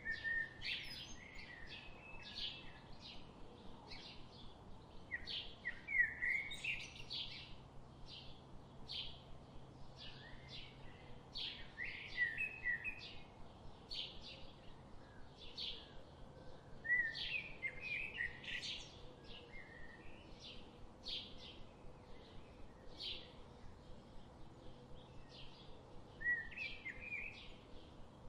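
Songbirds singing in a forest: a steady run of short, high chirps about twice a second, with longer, lower twittering phrases breaking in every five or six seconds.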